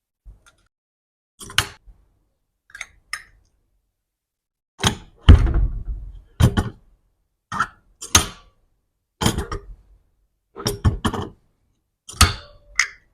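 Hand-operated magnet-making press: a string of about a dozen separate thunks, knocks and clicks, the heaviest thunk about five seconds in.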